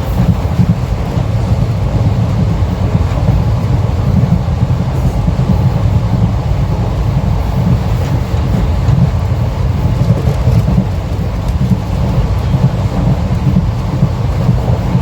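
Passenger train running at speed: a loud, steady, low rumble without a break.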